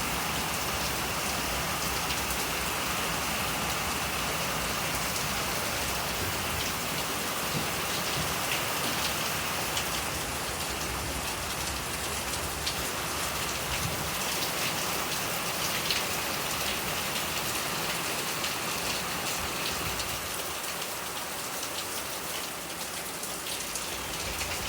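Heavy rain falling steadily, a dense hiss of drops on surfaces with scattered individual drop ticks.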